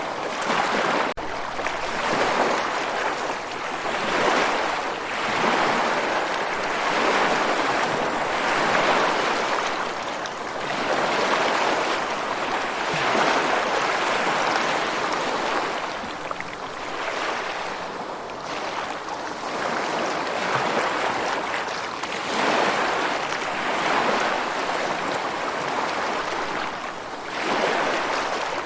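Ocean waves breaking and washing on a shore, a continuous surf that swells and eases every two to three seconds.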